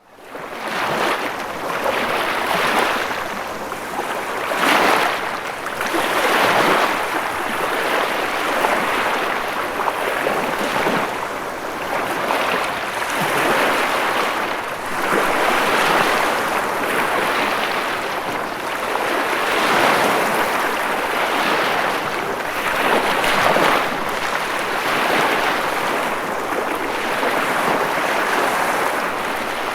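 Ocean waves breaking and washing on a shore: a continuous rush of surf that swells and eases every few seconds. It fades in at the very start.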